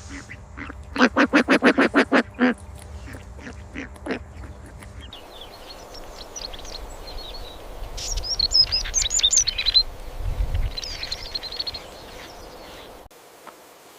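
Bird calls: a fast run of about a dozen loud, quack-like calls, then after a cut, small birds chirping in high twittering phrases. There is a low thud partway through the chirping.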